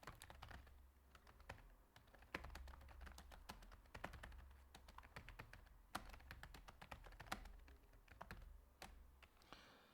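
Faint computer keyboard typing: a few scattered keystrokes, then a steady run of key clicks from about two seconds in until near the end.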